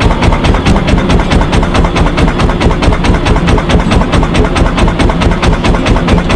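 Wooden fishing boat's engine running steadily, a loud, even beat of about six to seven knocks a second.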